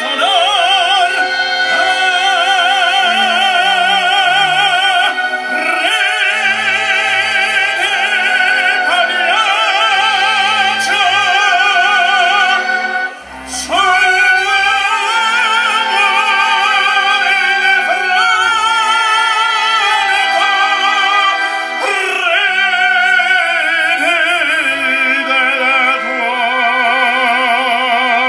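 Operatic singing with strong vibrato over a symphonic ensemble's accompaniment, which breaks off briefly about halfway through.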